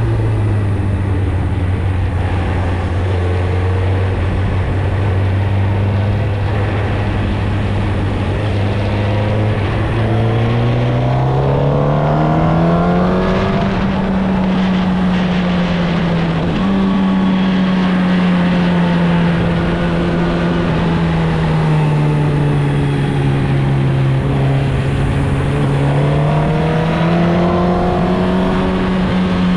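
2016 Suzuki GSX-R1000's inline-four running through its stock exhaust under way, holding a steady note, climbing to a higher pitch about ten seconds in, easing off a little and climbing again near the end.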